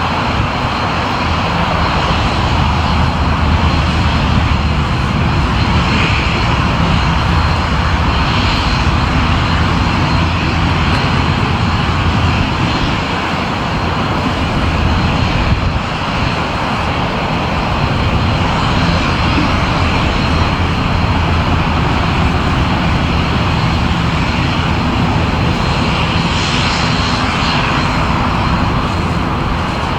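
Aircraft engines running at an airport: a loud, steady engine noise that holds level.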